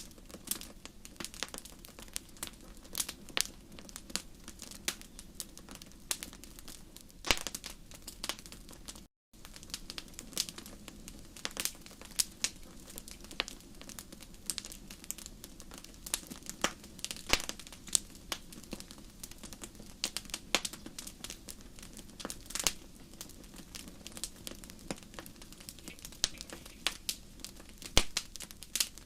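Fire in a fireplace crackling, with irregular pops and snaps over a low steady rumble. The sound cuts out for a split second about nine seconds in.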